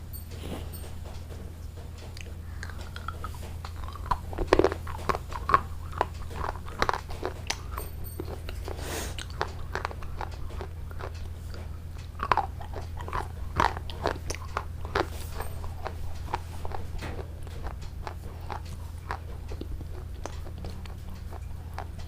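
Close-miked mukbang eating: crunchy food being bitten and chewed, a run of sharp crisp crunches that bunch up in two spells, over a steady low hum.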